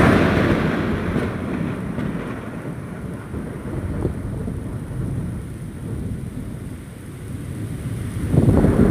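Thunder cracks right at the start and fades over a couple of seconds into a long low rumble over steady rain. Another roll of thunder builds near the end.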